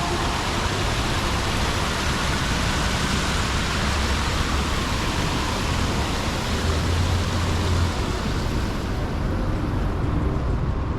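Downtown street traffic: a steady rushing hiss with a low engine rumble underneath, the hiss easing off near the end.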